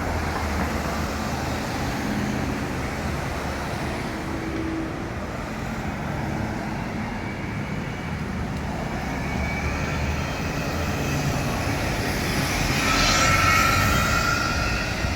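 Steady city street traffic noise with engines running low, swelling louder about 13 seconds in, when a high whine rises above it.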